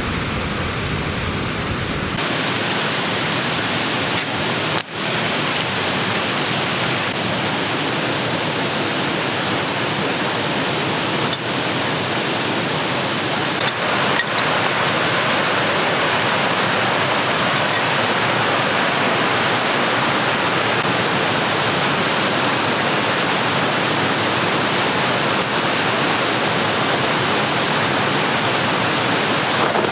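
Steady, even rushing noise of running water. Its tone shifts slightly twice early on, about two and five seconds in.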